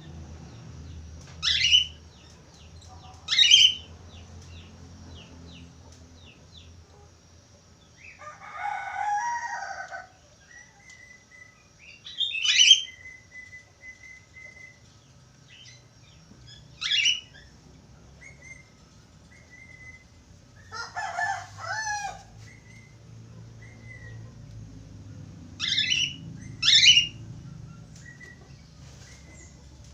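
Budgerigars giving short, sharp chirping calls, often in quick pairs, with two longer harsh bursts of chatter about eight and twenty-one seconds in.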